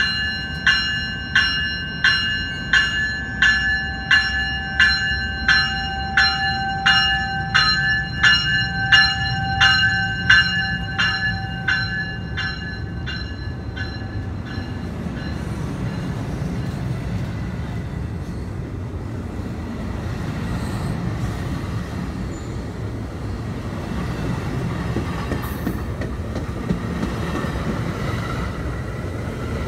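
NJ Transit bilevel commuter cars rolling past along the platform with a steady low rumble. A bell rings steadily for about the first half, nearly two strikes a second, then fades out, leaving only the train's running noise.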